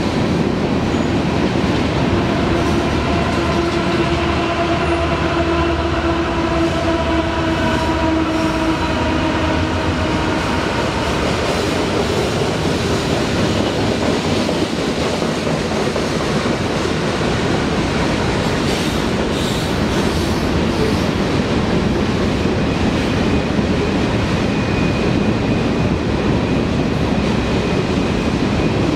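Two freight trains rolling past on adjacent curved tracks, one led by BNSF diesel locomotives: a steady rumble and clatter of steel wheels over the rails, with drawn-out wheel squeal on the curve, a lower squeal in the first few seconds and a high-pitched one near the end.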